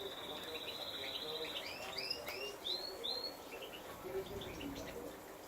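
Small aviary finches (serins, siskins, linnets and goldfinches) singing and chirping: a high trill for about the first second and a half, then a run of quick rising twittering notes. A sharp click a little past two seconds.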